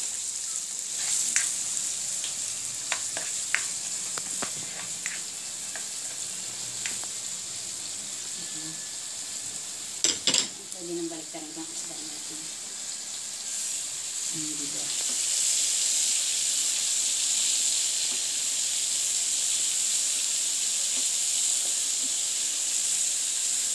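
Chopped onion and garlic sizzling in hot oil in a wok, with a spatula clicking against the pan several times in the first few seconds and one loud knock about ten seconds in. From about fifteen seconds in the sizzle grows louder and hissier as galunggong (round scad) fry in oil in a second pan.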